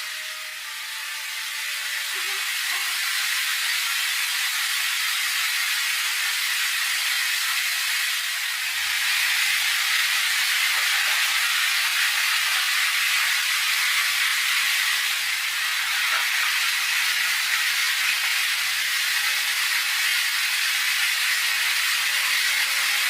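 A steady hiss, strongest in the upper middle range, with a faint low hum pulsing on and off underneath from about a third of the way in.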